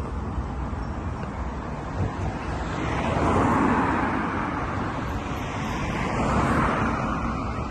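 Road traffic: a steady low rumble with passing vehicles, swelling about three seconds in and again near six seconds.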